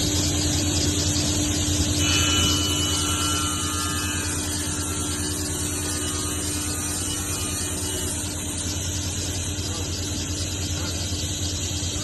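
Table saw running with a Yamashin King Tiger blade spinning: a steady motor hum with a fast flutter on top, and a thin higher whine added from about two seconds in until about eight seconds.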